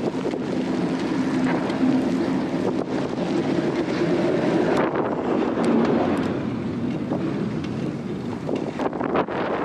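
Strong blizzard wind buffeting the microphone, with a steady low drone under it for the first half or so.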